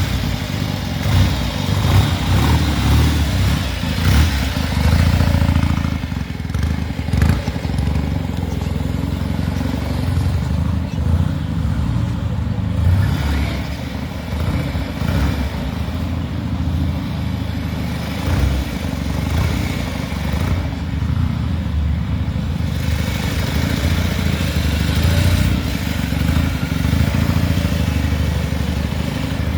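Velocette 700cc parallel-twin motorcycle engine, built from two 1930s 350cc KSS engines, running continuously, its loudness rising and falling.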